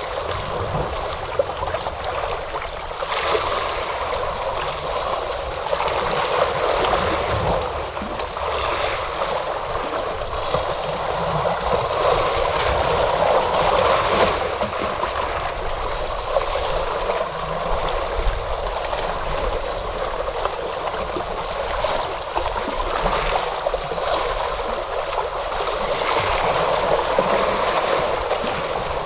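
Ocean surf washing in: a continuous rushing of water that swells and eases every few seconds.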